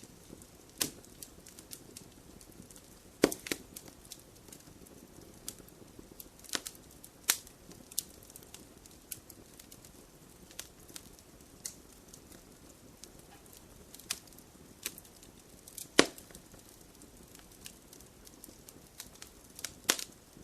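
Wood fire crackling in a fireplace: irregular sharp pops and snaps over a soft steady hiss, with the loudest pops about three seconds in and again near sixteen seconds.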